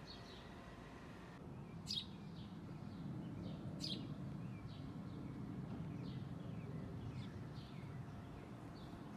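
Small birds chirping, a run of short falling chirps about twice a second. Two sharp clicks come about two and four seconds in, over a low, steady rumble.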